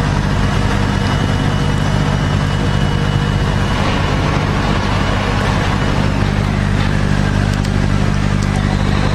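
Engine running steadily at constant speed, a deep unchanging drone.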